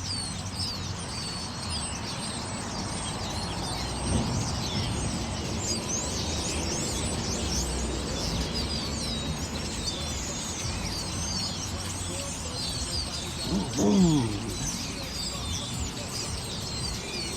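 Many small birds chirping at once, a dense chorus of short high calls, over a low steady rumble. About fourteen seconds in, one louder short call with a falling, voice-like pitch stands out.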